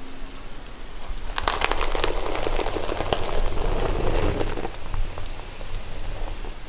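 Steady rain ambience under close, crackly rustling of fingers running through hair, strongest from about one and a half to five seconds in.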